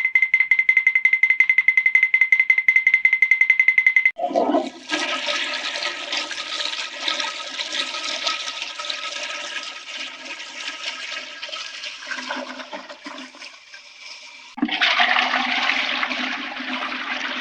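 Hanna-Barbera cartoon sound effects: a rapidly pulsing high tone for about four seconds, then a loud rush of water that fades out, followed by a second rush of water starting suddenly near the end.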